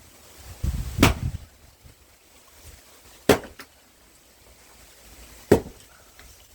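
Large blacksmith-forged axe striking pine firewood three times, about two seconds apart; the first blow lands with a heavy low thud.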